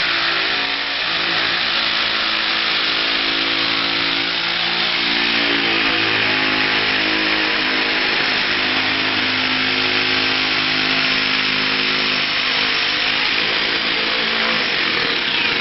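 Vehicle engine running, its pitch holding steady and stepping up or down every few seconds, with a steady hiss over it.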